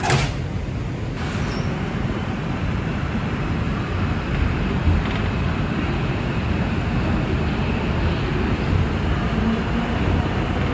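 R142 subway car's doors shutting with a sharp thud right at the start, then the train pulling out and running with a steady low rumble and wheel noise.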